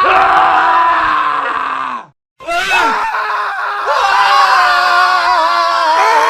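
Men screaming in a montage of cut-together screams. One long scream drops in pitch and cuts off about two seconds in, and after a brief gap another long scream starts, with more than one voice overlapping.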